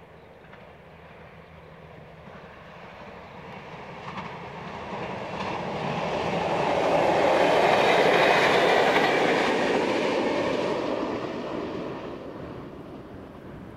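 V/Line VLocity diesel railcar set passing: its engine and wheel noise swells over about eight seconds, peaks, then fades as the train moves away.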